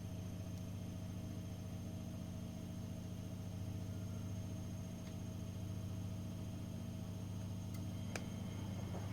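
Miele Professional WS5436 washing machine running mid-cycle: a steady low hum with a few faint ticks near the end.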